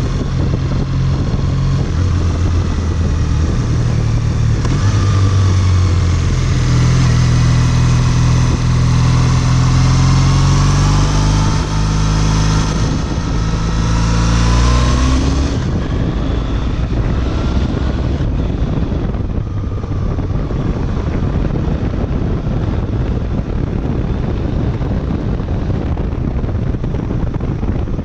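Triumph Bonneville's parallel-twin engine accelerating on the road, its note rising with the revs through the first half, with a brief break partway that suggests a gear change. About halfway through the throttle closes and the engine note falls away under steady wind rush on the microphone.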